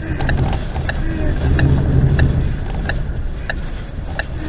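Steady low rumble of a vehicle on the road, with a regular tick about one and a half times a second.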